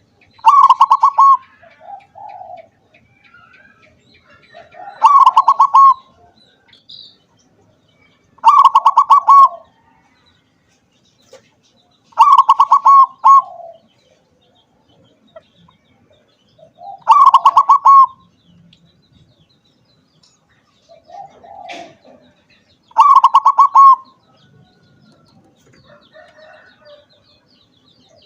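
Zebra dove (perkutut) singing: six loud phrases of rapid, stuttering coo notes, each about a second long and repeated roughly every four seconds, with softer, lower coos between them.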